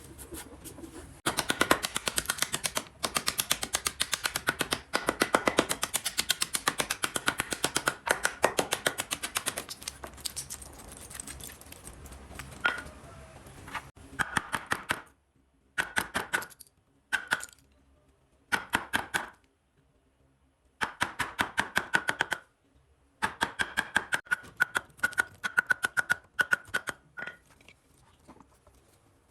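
Rapid, even tapping strikes, about six a second, in runs of one to several seconds broken by short pauses, each strike with a slight metallic ring.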